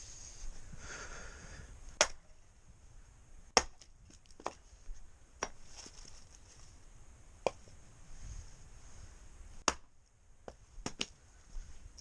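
Irregular sharp wooden snaps and knocks, about eight in all, the loudest about two seconds in, a little later, and near the end, as firewood and kindling are handled and broken for a wood stove.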